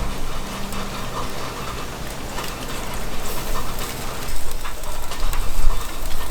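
Sizzling and crackling from the charcoal grill as the chicken is basted, with scattered small pops. A low rumble swells about five seconds in.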